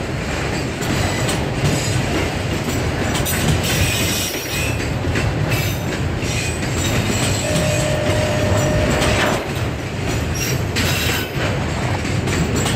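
Freight train of autorack cars rolling past, its wheels rumbling and clacking over the rail joints. A wheel squeal holds for nearly two seconds a little past the middle.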